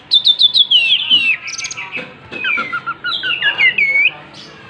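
Oriental magpie-robin (kacer) singing a fast, varied run of sharp whistled notes, most of them sweeping downward, stopping about four seconds in.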